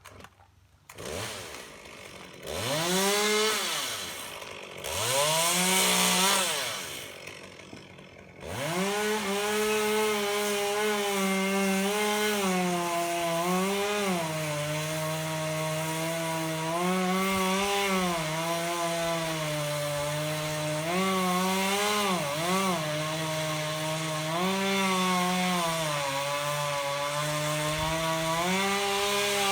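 Gas chainsaw revved twice, its pitch rising and falling back, then held at full throttle from about eight seconds in. While it cuts wood the pitch sags now and then under load and recovers.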